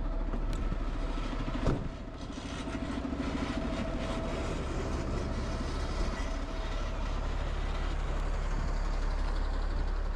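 A fire engine's motor running steadily, a heavy low rumble, with one sharp knock a little under two seconds in.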